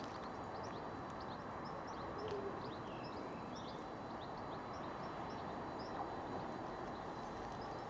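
Small birds chirping, a rapid scatter of short high chirps that is busiest in the first few seconds and thins out later, over a steady low background noise.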